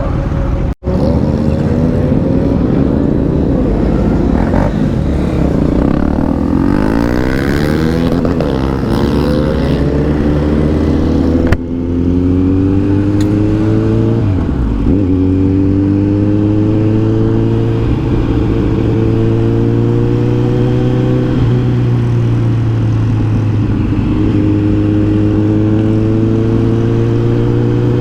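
Kawasaki Z900's inline-four engine and exhaust on the move, the revs rising and falling repeatedly through the first half. In the second half the engine holds a steady note that climbs slowly in pitch. The sound drops out briefly about a second in, and there is a sharp click about halfway through.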